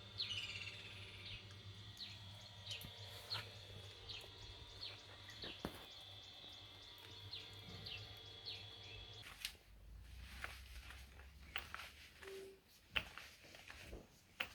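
A bird calling with short, high, downward chirps, about one every half second, over a faint steady hum. After about nine seconds the chirping stops and only faint clicks and rustles remain.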